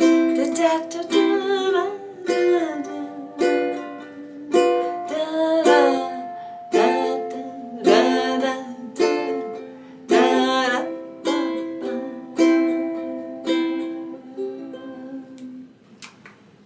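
Ukulele strumming chords, one strum or short strum pattern about every second, each ringing and decaying. The last chord is held and rings out, fading away near the end.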